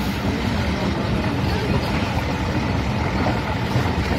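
Passenger train running, a steady low rumble and rattle without a break.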